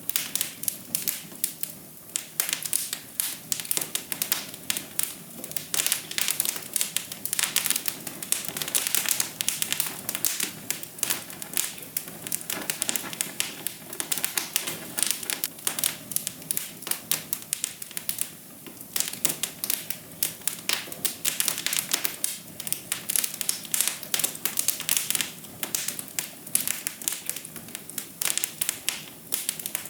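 Wood fire crackling in a fireplace: a dense, irregular stream of sharp snaps and pops over a soft steady hiss.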